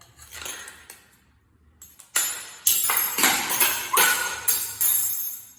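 Loud metallic jingling and rattling, like bells or a tambourine being shaken hard, starting about two seconds in and pulsing in quick repeated shakes.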